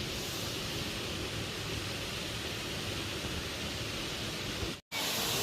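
Waterfall rushing in a steady, even roar of falling water; it cuts out for an instant near the end.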